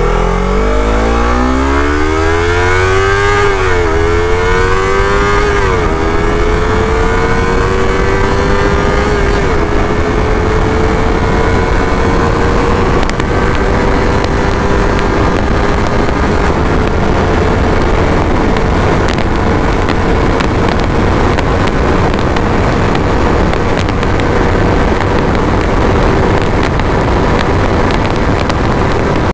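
Yamaha R3's 321 cc parallel-twin, breathing through an Akrapovic slip-on exhaust, accelerating hard. It climbs through two quick upshifts, about four and six seconds in, then holds high revs in top gear, rising slowly, with steady wind noise.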